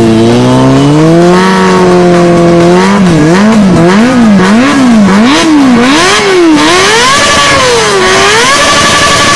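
Kawasaki ZX-25R's inline-four engine being revved while standing. The revs climb and hold, then blip up and down about six times in quick succession, then rise and hold high near the end.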